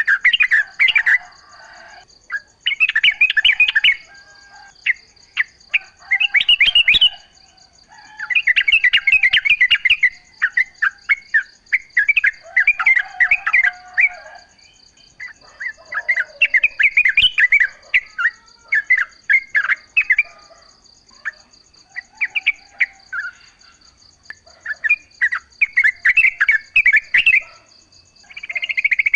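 Yellow-vented bulbul (trucuk) singing: repeated bursts of quick, bubbly warbled phrases, a second or two apart. A steady high pulsing buzz runs behind them.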